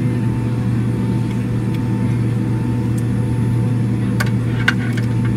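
Steady drone of a Boeing 767-300ER's jet engines and rushing air, heard from inside the passenger cabin. A few sharp clicks or rattles come about four to five seconds in.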